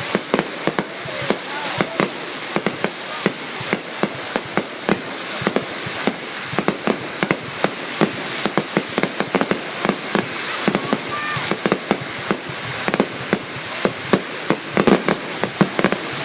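Fireworks going off without a break: many sharp bangs a second, overlapping over a steady crackling hiss.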